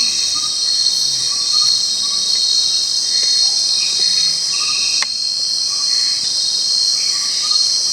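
Dense, steady insect chorus with a continuous high-pitched buzzing drone, and faint short chirps underneath. One sharp click about five seconds in.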